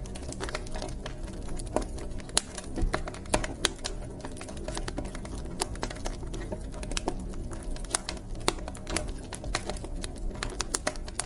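Wood fire burning in a fireplace, crackling with irregular sharp pops and snaps over a low steady rush of flame.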